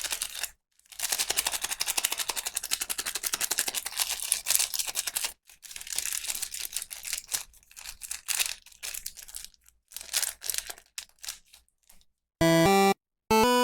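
Plastic toy packaging being crinkled and unwrapped by hand: a dense, rapid crackle for about four seconds, then scattered crackles. A short electronic melody with a steady blocky beat starts near the end.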